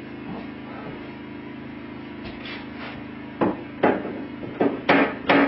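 Sheet metal of a stove's chimney pipe being knocked at its edge: five sharp knocks, starting about three and a half seconds in and coming closer together toward the end, over a steady low hum.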